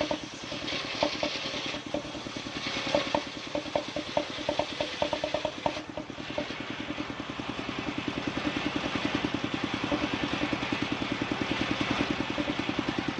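Engine of a wood-sawing machine running steadily, with a rapid even chugging and light clattering knocks in the first half.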